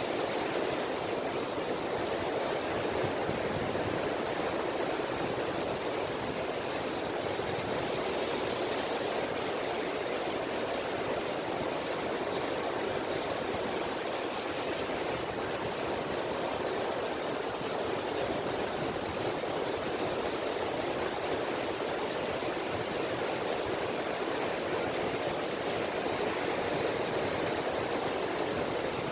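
Small, gentle sea waves (ripples) lapping at the shore, a steady wash of water with no distinct breakers.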